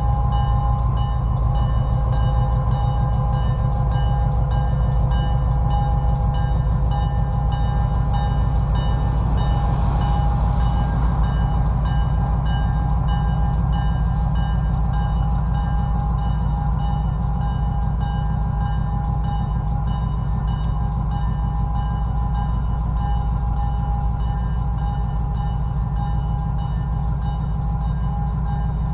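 Train rumbling steadily as it moves slowly away down the track, with a brief hiss about ten seconds in.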